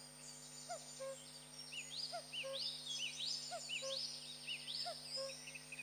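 Several birds calling at once: overlapping short chirping notes that repeat about once a second at different pitches, mixed with quick rising whistles.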